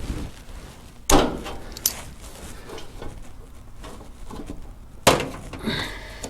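Two sharp knocks about four seconds apart, with a smaller click and light clatter between, as loose sheet-metal panels are shifted and tapped into position.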